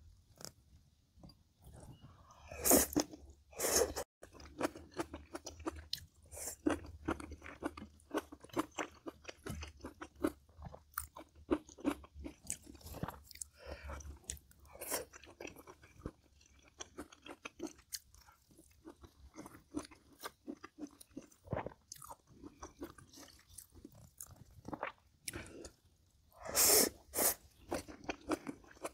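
A person chewing and crunching food up close, in many short irregular crunches, with a few louder bites about three and four seconds in and again near the end.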